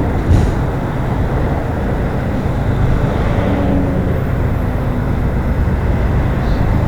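Diesel-powered CN freight train approaching on the main line: a steady, loud rumble of locomotive diesel engines mixed with rolling noise.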